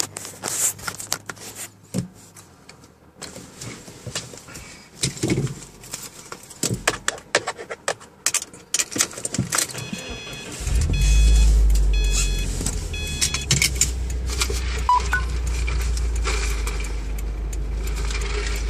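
Clicking and rubbing of a phone being handled, fingers on the microphone. About ten seconds in, a car engine starts and settles into a steady low idle, and a few short electronic chimes sound just after it starts.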